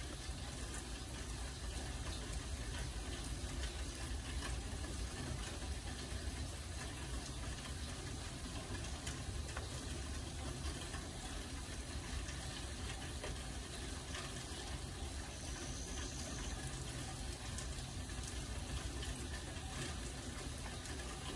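Steady rain, an even hiss with many small drop ticks scattered through it and a low rumble underneath.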